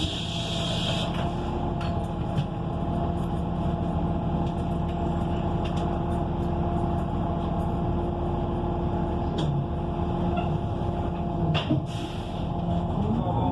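Inside a transit bus, its Cummins Westport ISL G natural-gas engine running at a steady pitch. A loud hiss of air cuts off about a second in, a short air hiss comes near the end, and the engine's pitch starts to climb just at the end.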